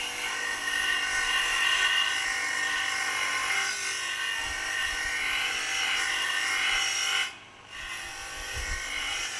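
Steady rubbing and scraping workshop noise, which cuts off abruptly about seven seconds in and comes back a little quieter.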